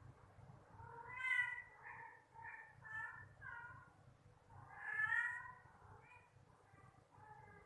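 Cats meowing repeatedly: a loud, drawn-out meow about a second in and another about five seconds in, with several shorter meows between and after.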